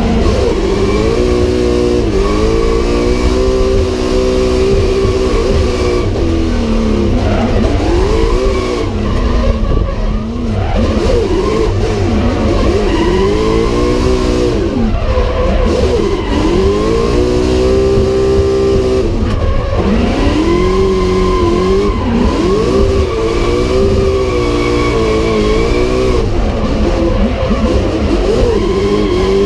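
410-cubic-inch engine of an R34 Nissan Skyline drift car heard from inside the cabin, loud and revving hard, its pitch climbing and dropping again and again every couple of seconds as the throttle is worked through the slides.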